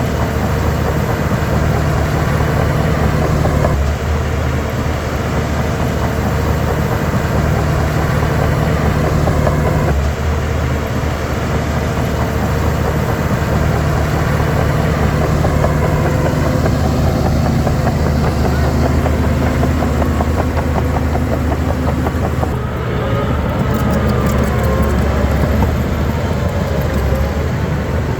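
Diesel engine of a Shantui DH17 C3 bulldozer running continuously as the machine works, its note shifting every several seconds as the load changes.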